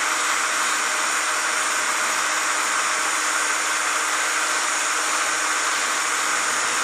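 Power drill spinning a brake-cylinder hone inside the bore of a steel valve body, a steady whirring hiss at constant speed.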